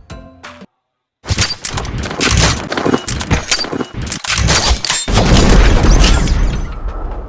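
Rapid burst of gunfire, many sharp shots in quick succession, then a heavy boom with a rumbling tail that slowly fades.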